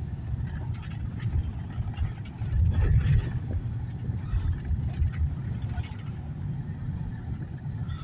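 Low rumble of a car's road and engine noise heard from inside the moving cabin, uneven over a bumpy road and louder around three seconds in.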